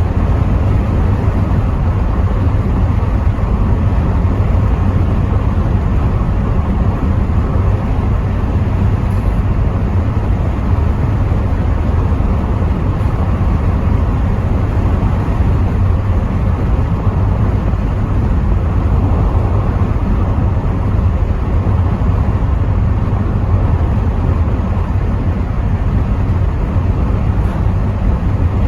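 Rover 75 V6 Tourer on the move, heard from inside the cabin: a steady low rumble of engine and road noise, with wind noise coming in through the partly open windows.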